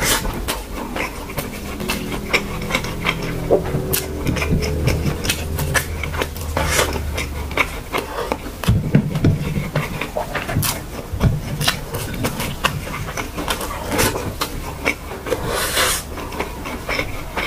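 Close-miked chewing of a mouthful of fried rice with many wet mouth clicks and smacks, while fingers pick at rice on the plate; a brief hiss near the end.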